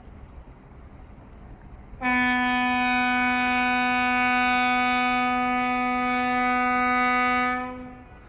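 A ship's horn sounding one long steady blast of about six seconds at a single low pitch, starting about two seconds in and fading out near the end, over a low background rumble.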